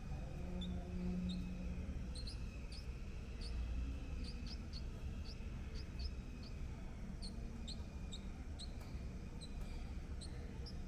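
Small birds giving thin, high, squeaky chirps, short single peeps repeating irregularly about two to three a second, over a steady low rumble.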